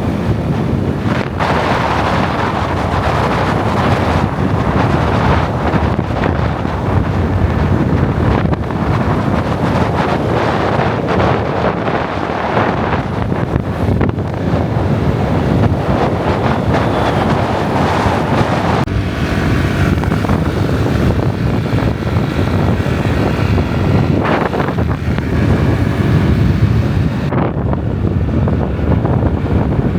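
Loud wind buffeting the microphone while riding a motorbike, with the bike's engine running underneath.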